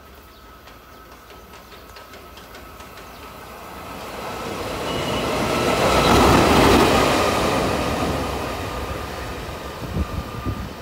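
Taiwan Railway E300-series electric locomotive E311 running light, passing by. Its sound builds to a peak about six seconds in and then fades, with a few wheel knocks near the end.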